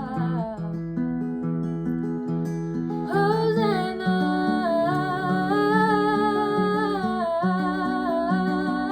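Worship song on acoustic guitar, with plucked, strummed chords alone for about three seconds. A woman's voice then comes in, singing long, wavering held notes over the guitar.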